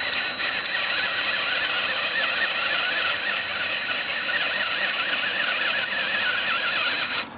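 Power tool working on a stuck steel cylinder-head bolt, with a steady high whine and a harsh metal squeal that stop abruptly near the end.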